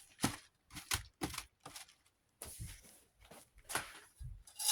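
Irregular clicks, knocks and short scrapes of the front guard of a Galaxy 9-inch desk fan being handled and fitted back on.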